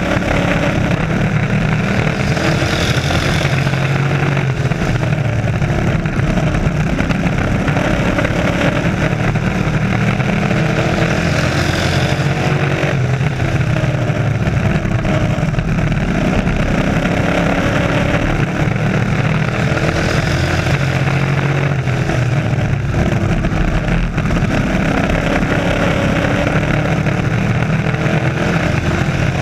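Race trucks' engines running hard around an oval track, their pitch rising and falling as they accelerate and lift, with the pack swelling louder as it passes about every eight to nine seconds.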